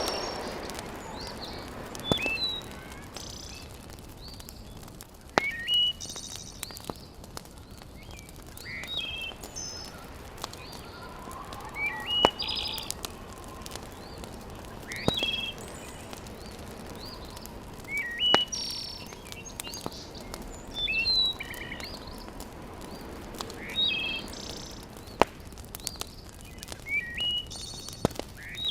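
A bird calls again and again, a short phrase of high chirps about every three seconds. Under it a wood fire crackles with a steady hiss and an occasional sharp pop.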